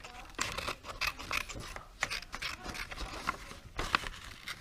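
Scissors snipping through paper, a run of irregular short snips and rustles of the sheet being handled.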